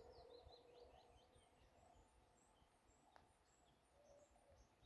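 Near silence with faint birds chirping and twittering, busiest in the first second or two. A single faint click comes about three seconds in.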